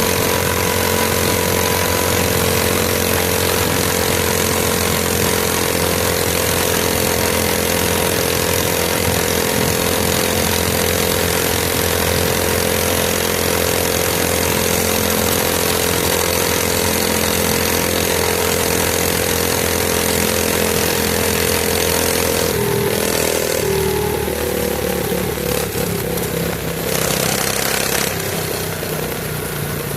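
A mini bike's small single-cylinder engine runs at a steady speed. About three-quarters of the way through, its pitch drops and wavers and it gets a little quieter as the throttle eases off.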